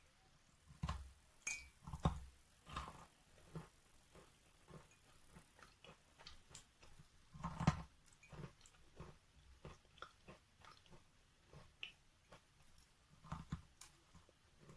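Wet natural chalk being bitten and chewed close to the microphone: irregular crunches and small crackles. A few bites stand out louder, the loudest about halfway through.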